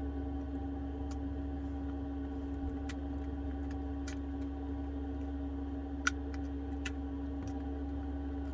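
Scattered small, sharp clicks of metal tools and small phone parts being handled while an iPhone is taken apart, over a steady electrical hum.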